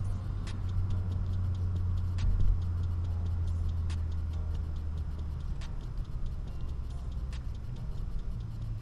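BMW E90 engine and exhaust droning low while driving, easing off about halfway through, with a brief thump a couple of seconds in and faint ticking throughout.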